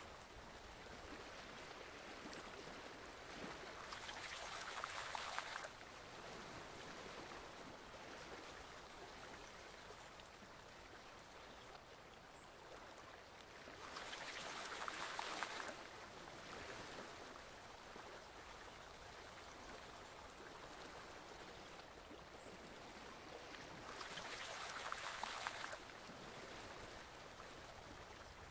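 Forest stream water flowing steadily, with a louder rush of water three times, about every ten seconds. Each rush builds up over a second or two and then cuts off sharply.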